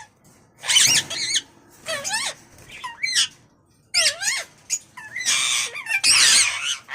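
Indian ringneck parakeets calling: a series of about seven short, high squawks and screeches, some sliding up and down in pitch, some harsh, with short pauses between them.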